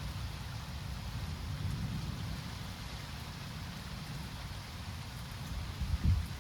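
Steady rain falling during a thunderstorm, over a continuous low rumble, with a short low thump about six seconds in.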